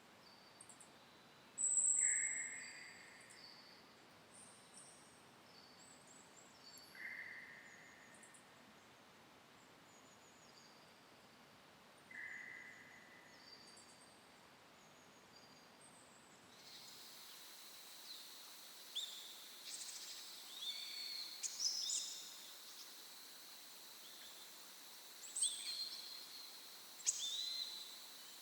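Forest birds calling over a faint hiss: a short call repeats about every five seconds, among higher chirps and whistles. From about two-thirds of the way through, the hiss rises and the birdsong gets busier, with several overlapping chirps.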